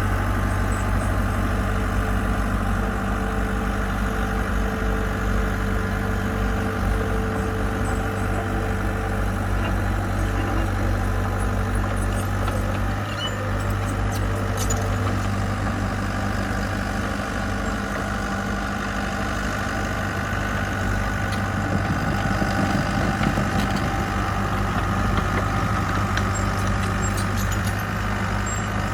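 Diesel engine of heavy construction machinery running steadily at constant revs, a low even drone with no revving.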